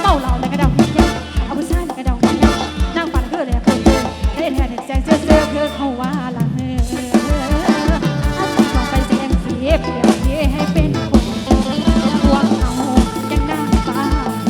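Isan dance music from a rot hae band played through its truck-mounted sound system: a steady, driving kick drum with a wavering melodic lead over it.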